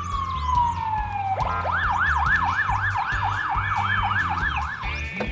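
Ambulance siren: one falling wail, then a fast yelp sweeping up and down about three times a second, which stops just before five seconds in.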